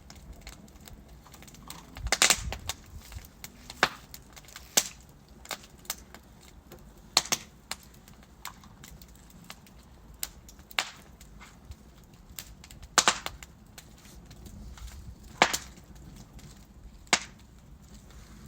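Wood logs burning in a fireplace, crackling with sharp pops and snaps every second or two, a few of them much louder, over a low steady rush of the flames.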